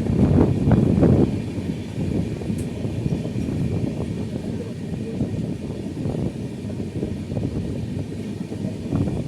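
Steady low rumble of a moving passenger train, louder for about the first second.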